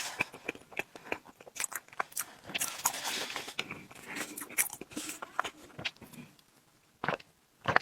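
Close-miked eating of tiramisu cake: chewing with many short, wet mouth clicks and smacks. The clicks pause briefly about six seconds in, then two sharper clicks follow near the end.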